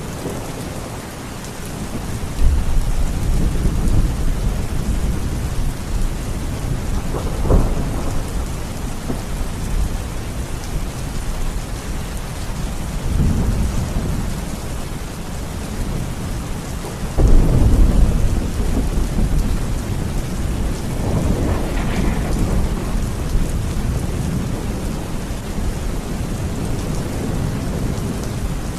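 Steady rain falling, with several low rolls of thunder rumbling through it; one short sharper crack comes about a quarter of the way in, and the loudest rumble comes a little past halfway.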